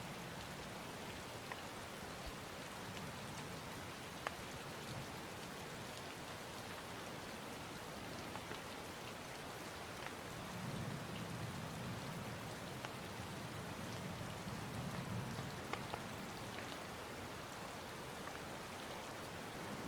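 Rain falling steadily, with scattered sharp drop ticks. A low rumble swells about halfway through and fades a few seconds later.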